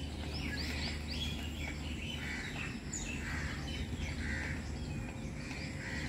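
Several birds chirping and calling with short notes and a few quick falling whistles, over a steady low background rumble of outdoor ambience.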